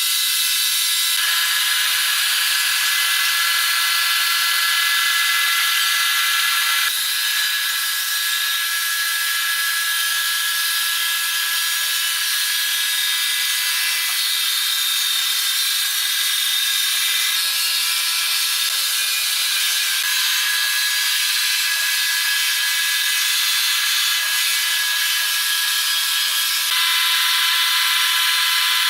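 Sawmill saw running with a steady high-pitched whine and hiss; its tone and level shift slightly about seven seconds in and again near the end.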